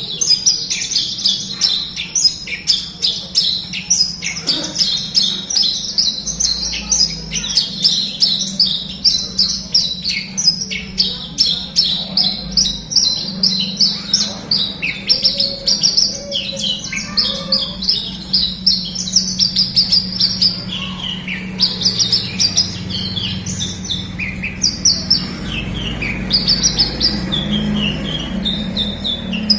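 Javan bush lark (branjangan) in full song: a fast, unbroken run of high chirps, trills and short slurred notes, without pause.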